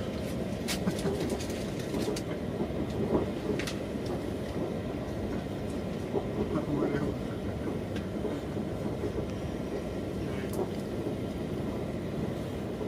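Cabin running noise of a Rhein-Ruhr-Express Siemens Desiro HC electric multiple unit at speed: a steady rumble, with a few sharp clicks scattered through it.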